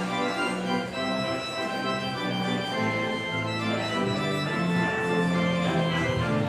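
Organ playing a postlude: sustained chords and a moving melody in held notes.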